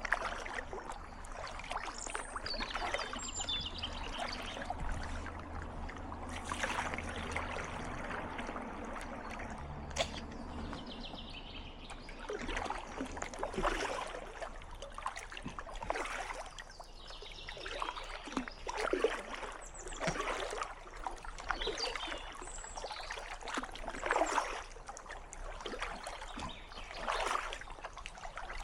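Kayak paddle blades dipping and splashing in calm water, a stroke every second or two, most distinct from about halfway through. Short bird chirps come through near the start and again later.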